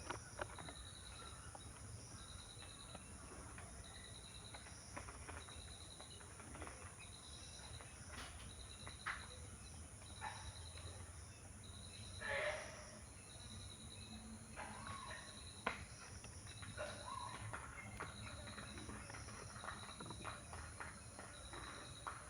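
An insect chirping in short, rapidly pulsed high trills repeated a little more than once a second. Scattered faint clicks and short bird calls sound over it, with one louder call about twelve seconds in.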